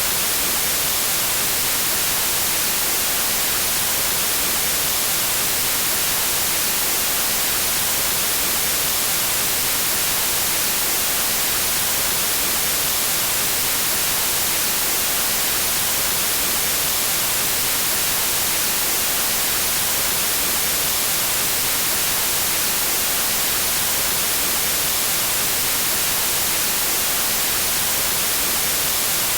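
Steady white noise: an even hiss, strongest in the treble, unchanging throughout.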